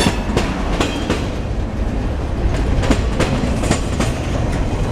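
Freight train cars rolling past at trackside, wheels clicking over rail joints above a steady low rumble.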